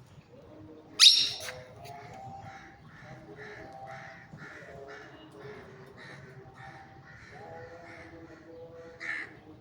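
Parrot squawking: one loud, harsh squawk about a second in and a softer one near the end, with a run of quieter, evenly repeated calls in between.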